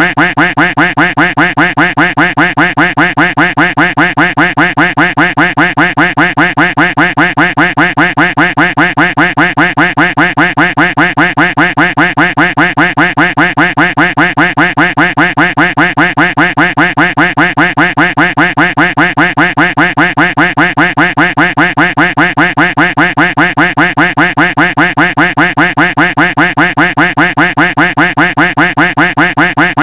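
Duck quack sound effect looped without a break, one quack after another at about three a second.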